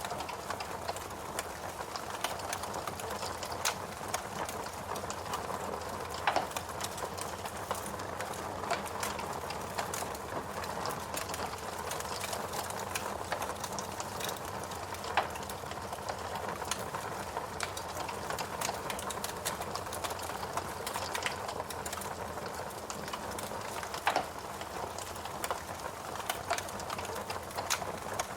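Wood logs burning in a fireplace: a steady rustling hiss of flames with frequent small crackles and a few louder pops.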